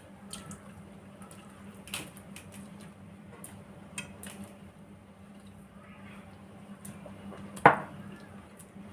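Dishes clinking and tapping during a meal: a few light clicks, then one sharper, louder clink near the end, over a low steady hum.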